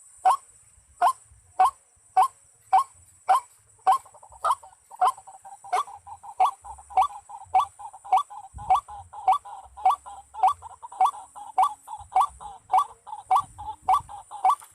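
White-breasted waterhen calls, a sharp note repeated evenly about twice a second, quickening to about three a second partway through, over a steady high hiss.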